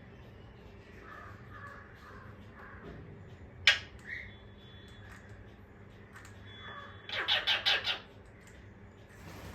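Pet parrot squawking: one sharp, loud shriek about four seconds in and a short call right after it, then a quick run of about six harsh squawks near the end.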